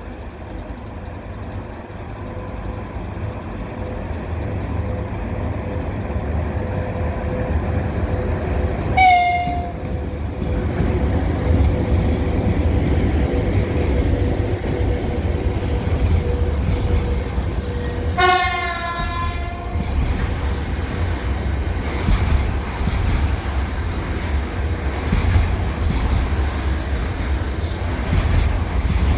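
VL80s electric freight locomotive with a container train approaching and passing, its low rumble growing louder. It sounds its horn twice: a short blast about nine seconds in and a longer one about eighteen seconds in. Then the wagons clatter over the rail joints.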